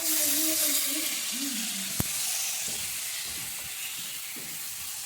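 Beef steak sizzling in a hot frying pan: a loud hiss that jumps up at the start and then slowly eases. A single sharp click comes about two seconds in.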